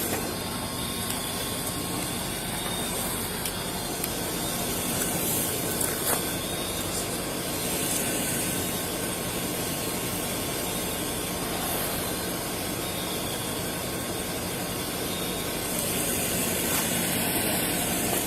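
Steady hum and hiss of a vehicle engine running at idle.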